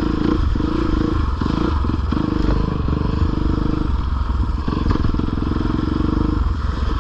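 Four-stroke 450 dirt bike engine running under load on a trail ride, the throttle easing off and coming back on a few times.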